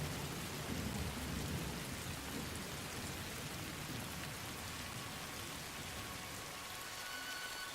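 Steady heavy rain falling, with a low rumble of thunder in the first couple of seconds that fades away. Faint held musical tones come in near the end.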